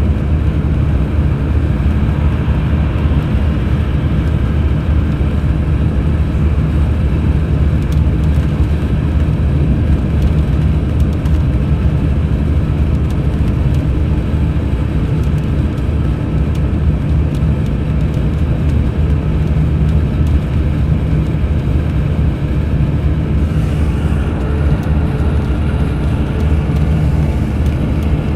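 Mercedes-Benz O500 RSD BlueTec5 coach's diesel engine running steadily under way, a constant deep drone mixed with road noise. A faint higher tone joins about three-quarters of the way through.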